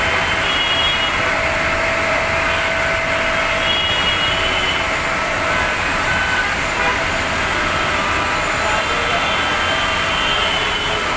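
Heavy rain pouring steadily as a dense, even hiss over a city street, with road traffic running underneath and a few faint held tones.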